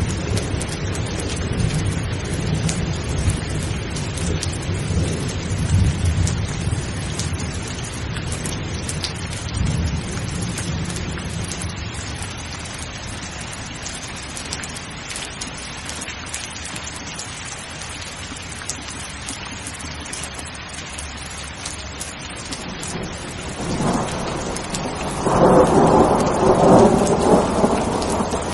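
Steady rain falling, with thunder: a low rolling rumble through the first ten seconds or so that fades away, then a louder peal of thunder starting about 24 seconds in.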